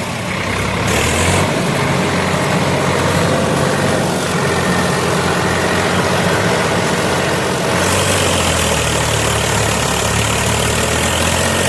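Farm tractor's diesel engine running steadily. It grows stronger for a moment about a second in, and again from about eight seconds in until near the end.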